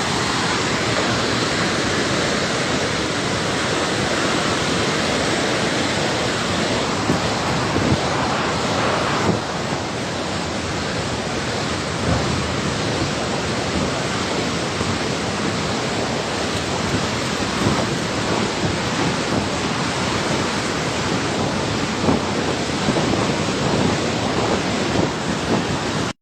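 Floodwater of a swollen river rushing in a steady, loud roar.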